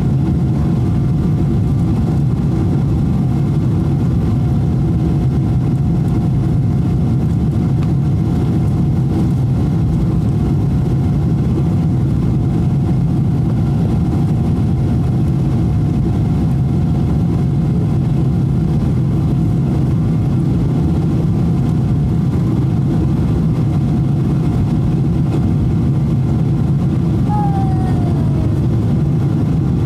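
Steady engine roar and rushing air heard inside the cabin of a Boeing 777-200 under power, deep and even throughout, with a faint steady whine above it. Near the end a short falling tone sounds once.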